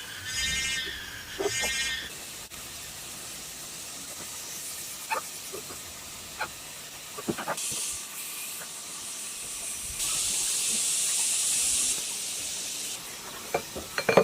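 An animal bleating twice in the first two seconds, then scattered clicks and knocks, and a steady hiss lasting about three seconds in the second half.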